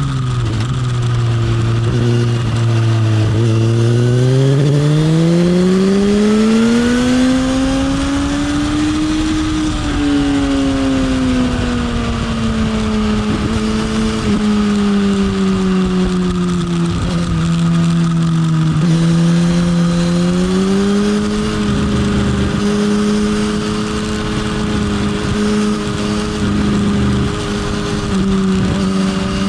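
Motorcycle engine heard from on board under a rush of wind, rising and falling with the throttle through corners: it drops low at the start, climbs slowly over several seconds, eases back, then picks up again and holds steady near the end.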